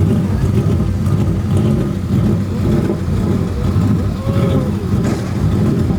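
Truck engine running loud and steady in a burnout pit, held at a constant high level with no let-up.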